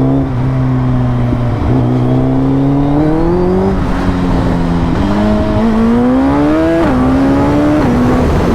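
Suzuki Hayabusa inline-four engine under hard acceleration: its note climbs in pitch and drops suddenly at each upshift, twice, with wind rushing past.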